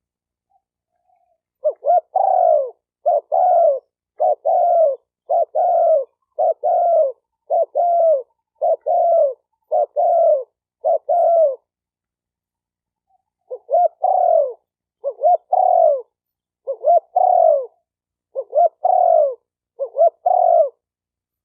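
Spotted dove cooing in quick repeated phrases, each a short note followed by a longer falling coo, roughly one phrase a second. A run of about nine phrases, a pause of about two seconds, then six more.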